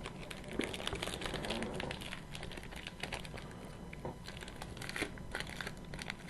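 Plastic-foil hockey card pack wrapper crinkling and crackling in the hands as it is worked and torn open, in irregular bursts.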